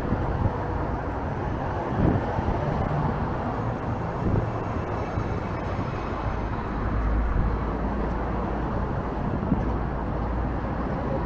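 Strong wind buffeting the microphone as a low rumble that swells for a few seconds past the middle, over passing road traffic.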